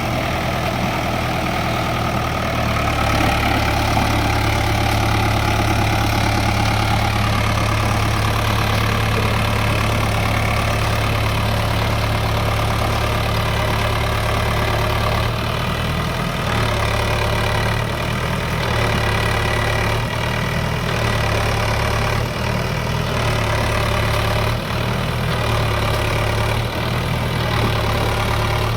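Swaraj tractor's diesel engine running steadily, its low drone dipping briefly a few times in the second half.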